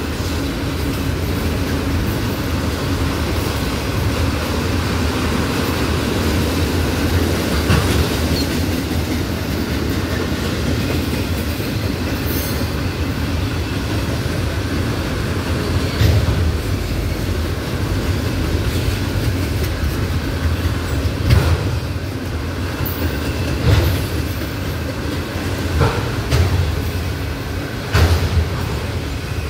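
Empty autorack freight cars rolling past: a steady rumble of steel wheels on rail, broken by several sharp clanks and a brief high wheel squeal about twelve seconds in.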